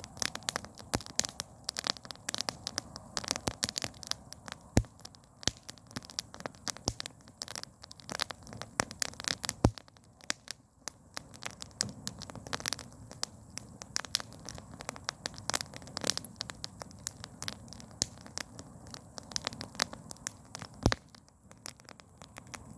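Campfire of burning firewood crackling: irregular sharp pops and snaps, several a second with a few louder ones, over a steady low rush of the flames.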